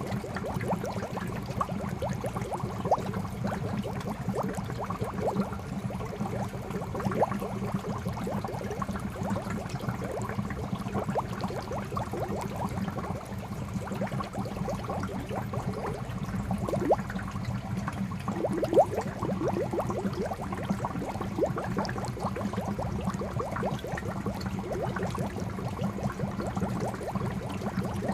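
Water from a fountain spout pouring into a koi pond: continuous splashing and bubbling, with a couple of louder splashes past the middle.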